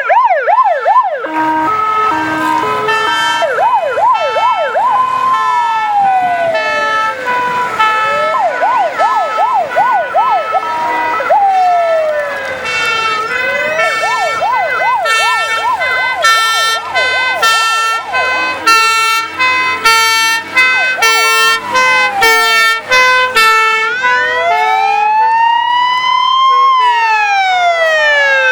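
Several fire engine warning devices sounding at once: a siren switching between a slow rising-and-falling wail and a fast yelp, over two-tone horns alternating between two pitches. Near the end the wail makes one long rise and fall.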